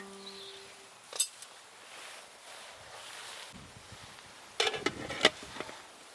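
Metal camp cookware being handled: a single clink about a second in, then a quick run of metal clinks and knocks near the end.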